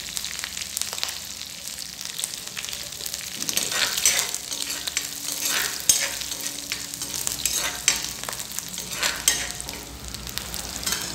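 Whole green chilies, dried red chili, kalonji and ginger paste sizzling in hot oil in a wok while a spatula stirs them. The stirring strokes scrape and tap against the pan again and again, more often from about three seconds in.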